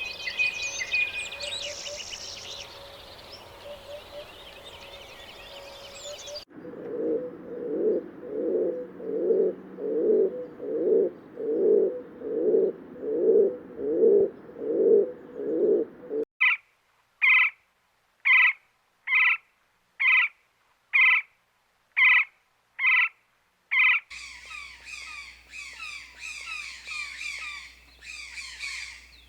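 A run of separate animal call recordings, chiefly birds. It opens with dense high chirping. About six seconds in, a low call takes over and repeats roughly once a second. After about sixteen seconds a higher, sharper call repeats at the same pace with silence between. About twenty-four seconds in, busy twittering returns.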